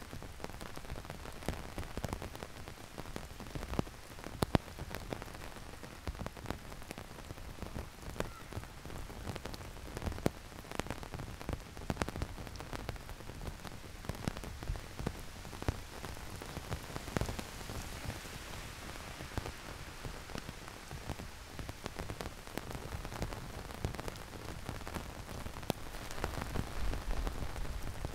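Heavy rain falling steadily, with many sharp individual drops ticking and splashing close by.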